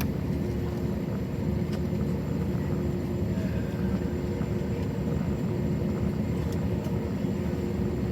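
Jet engine noise inside the cabin of an Airbus A321: a steady low rumble with a constant hum, unchanging in pitch and level.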